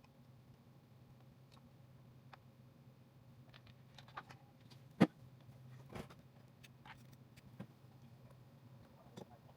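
Scattered clicks and light taps of parts and tools being handled on a motorcycle, with one sharp click about five seconds in, over a faint steady hum.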